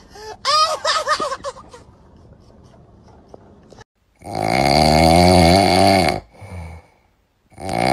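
Loud snoring sound effect: two long, harsh snores, the first lasting about two seconds and the second starting near the end, after a short wavering cry at the start.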